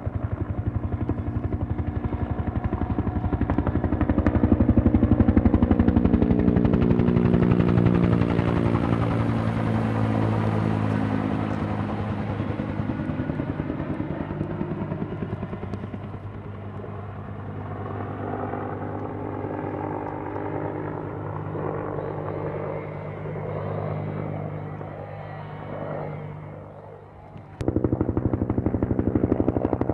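Helicopter passing overhead. The rotor and engine drone is loudest about six seconds in, falls in pitch as it goes by, then fades away. Near the end it cuts suddenly back to a loud helicopter drone.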